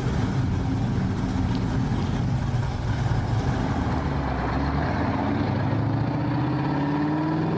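Muscle car engine running at idle with a steady, deep rumble, its pitch creeping up slightly near the end.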